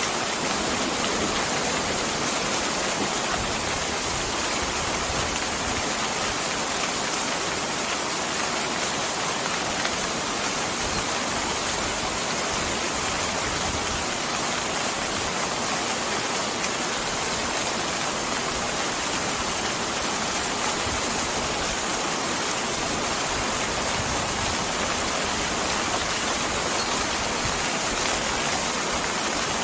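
Steady rainfall, an even, unbroken hiss with no change in loudness.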